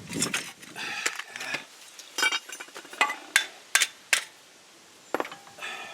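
Metal tools and parts clinking and clanking as a rear shock absorber is worked up into its mount: a string of about half a dozen sharp, ringing metallic taps.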